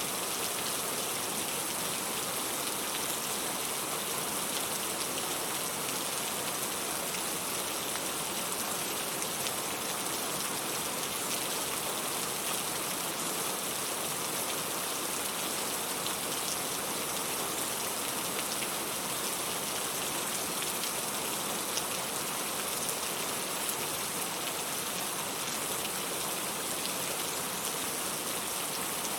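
Steady rain falling: an even hiss dotted with the small ticks of individual drops, with no thunder in this stretch.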